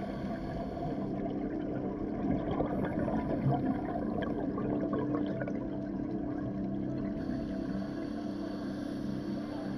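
Underwater ambience picked up by an action camera in its housing during a scuba dive: a muffled, steady watery rush with a low hum running under it.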